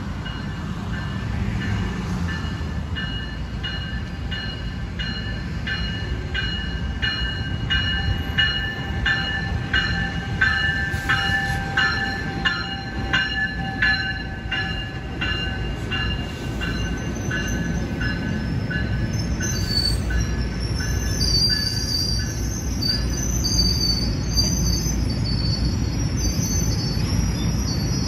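A train rumbling by on the rails, with a bell ringing in an even rhythm through the first half or more. Near the end come high-pitched wheel squeals.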